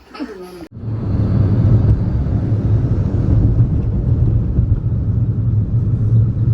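Steady low rumble of a moving vehicle heard from inside, starting abruptly less than a second in. A child's short voice sounds just before it.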